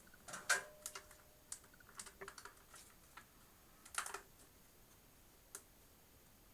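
Irregular small plastic clicks and knocks of hard drives being snapped into toolless plastic drive caddies, two louder clacks about half a second in and about four seconds in.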